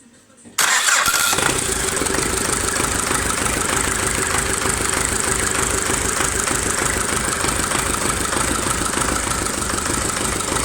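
D-240 four-cylinder tractor diesel starts up abruptly about half a second in, then runs steadily with an even low beat, freshly rebuilt and turned over by an electric starter instead of a pony engine.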